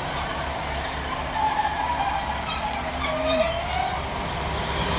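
Class 390 Pendolino electric train running through the station: a steady low rumble with a few faint drawn-out tones over it.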